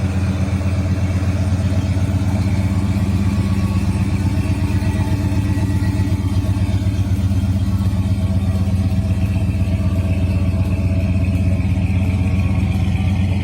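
Classic American car's V8 engine idling steadily, with an even, unchanging pitch.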